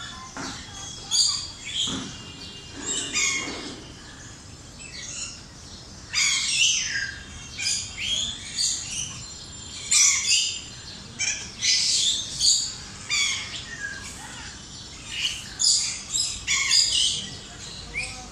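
Birds chirping and calling: many short, high chirps and squawks in quick succession, busiest from about six seconds in.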